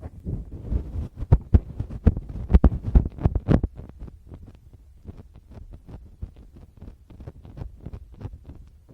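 Fingertips tapping and rubbing directly on a Tascam recorder's microphones, giving close, deep thumps. The taps are strong for the first three or four seconds, then turn into lighter, quicker taps and scratches.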